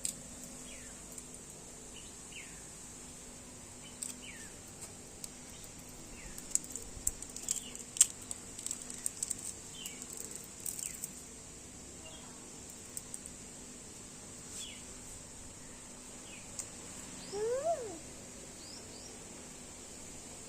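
Sparse small-bird chirps throughout. About a third of the way in comes a run of light clicks and knocks, one of them sharper than the rest, and near the end a brief rising squeal.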